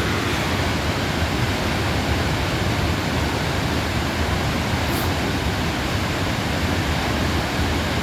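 Crescent Falls on the Bighorn River: the steady, even rush of the waterfall pouring, loud and unbroken.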